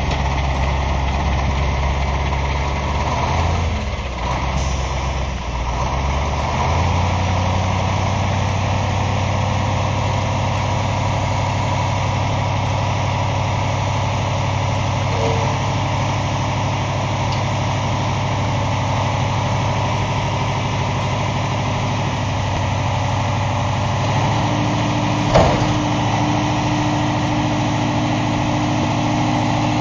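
Hooklift truck's diesel engine running steadily, its speed changing a few seconds in. About 24 seconds in, a new steady hum joins it, and a sharp clunk follows about a second later.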